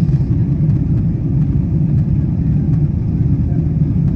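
Steady low rumble of a Boeing 777-200ER's cabin in flight, airflow and engine noise heard from inside the cabin, during the descent.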